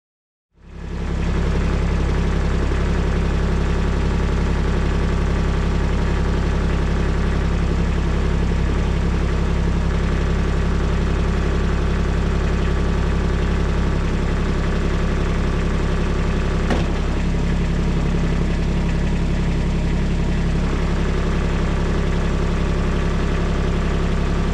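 Kubota excavator's diesel engine running steadily, fading in within the first second, with a single click about two-thirds of the way through.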